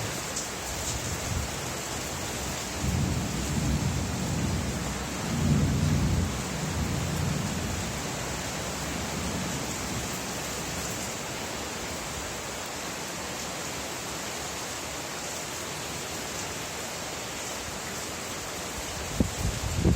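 Steady rain, with a low roll of thunder swelling a few seconds in and dying away by about eight seconds. A couple of short low thumps near the end.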